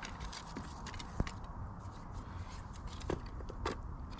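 Scattered snaps and knocks of sticks and kindling being handled while a campfire is built, the sharpest snap about a second in, over a steady low rumble of wind on the microphone.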